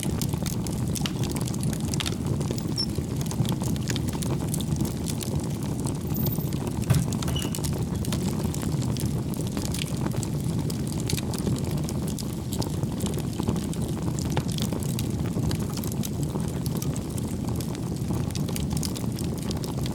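Wood fire burning in a fireplace: a steady low rush of flame with scattered small crackles and pops, one louder pop about seven seconds in.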